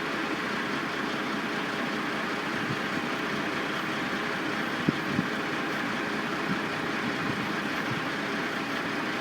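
Steady din of heavy construction machinery and truck engines running, with two short knocks about halfway through.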